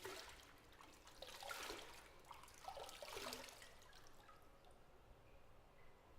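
Faint bath water sloshing and dripping, with small gurgling splashes in two bursts, about a second in and around three seconds in, then dying away.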